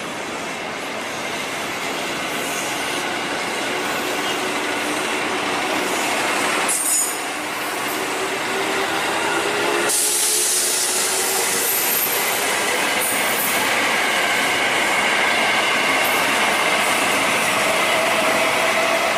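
A train passing on the track at close range: a steady rumble of wheels on rail with thin, high wheel-squeal tones. The sound changes abruptly about seven seconds in and again about ten seconds in.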